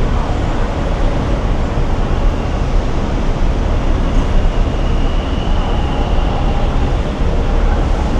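Steady vehicle noise heard inside a taxi's cabin: a low rumble with a hiss above it.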